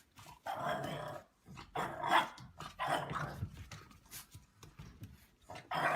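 A dog vocalizing in about four drawn-out bursts, each lasting half a second to a second.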